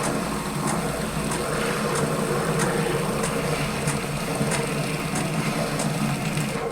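Gaggia Titanium bean-to-cup coffee machine running, a steady mechanical hum with a faint tick about every two-thirds of a second, cutting off suddenly near the end.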